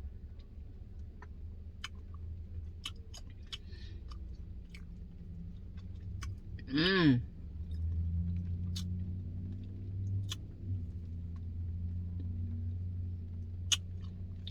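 A person chewing a mouthful of soft-serve ice cream with pecan pieces, with scattered wet mouth clicks and smacks. About seven seconds in comes one short hummed 'mm'. A steady low hum sits underneath.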